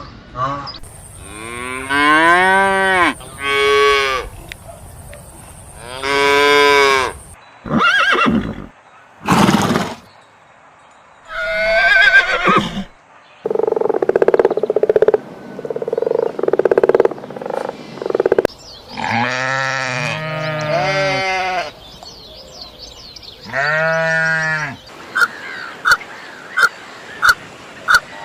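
Cattle mooing: a series of separate drawn-out calls, each rising and falling in pitch. Near the end comes a quick run of short high peeps, about two a second.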